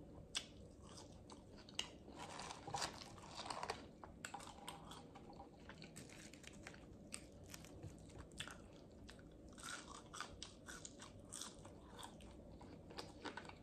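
Faint, close-miked chewing of sauce-dipped French fries: many small wet clicks and crackles of a mouth eating, thickening into denser spells a few times.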